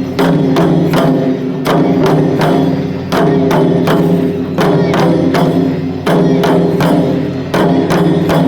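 Shishimai festival drumming: rapid sharp strikes on a taiko drum over its ringing low tone, in a pattern that repeats about every second and a half.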